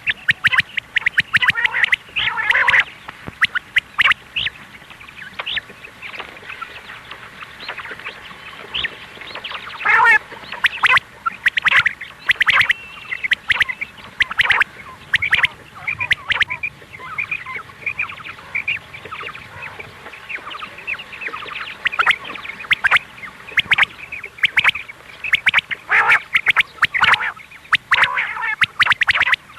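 Quail calling: many short, sharp calls in quick clusters, with softer, sparser calling in between.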